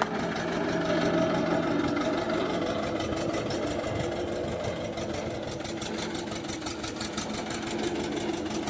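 HMT tractor's diesel engine running steadily at idle, with an even, fast pulsing beat.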